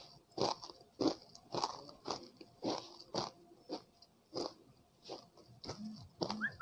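Close-miked chewing of crunchy chegodilu (fried rice-flour rings), a crisp crunch about twice a second.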